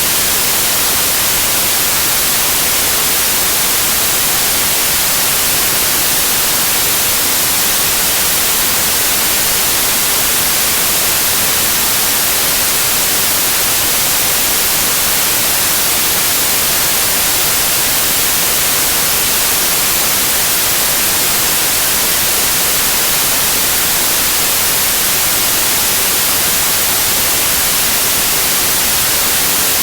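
Steady white noise in the manner of TV static, an even hiss strongest in the treble, with no change or break.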